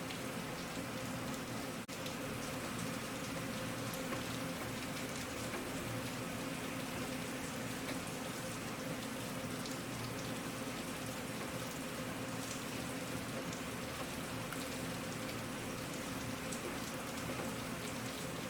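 Steady rain falling: a continuous even hiss with faint scattered drop sounds, and one momentary dip in level about two seconds in.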